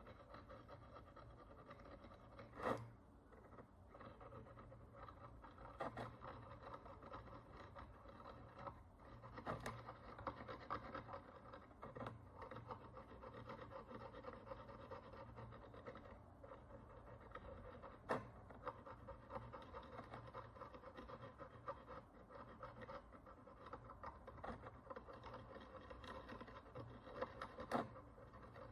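Faint, steady fine scratching of a tool working encrusted dirt and oxidation off a Roman bronze follis coin, with a few sharp clicks scattered through it.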